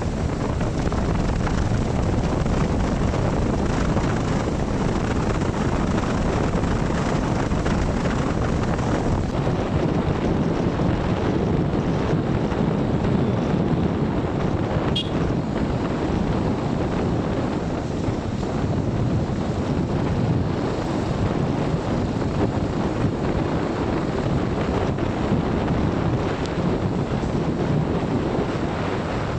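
Wind rumbling steadily on the microphone over steady vehicle road noise, with one faint short tick about halfway.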